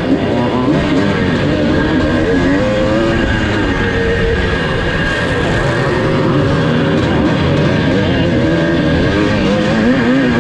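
1982 Husqvarna 430 two-stroke motocross engine revving up and down as the bike is ridden, with music playing over it.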